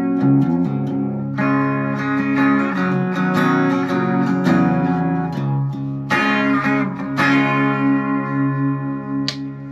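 Chapman SAR63 electric guitar played through an amp, chords struck and left to ring, with single notes between them.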